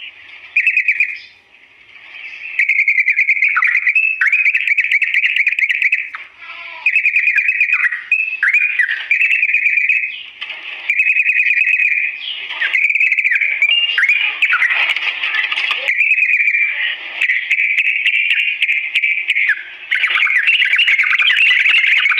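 Yellow-vented bulbul (cucak trucuk) singing a long, fast, rolling chatter in phrases of two to three seconds with short breaks between them.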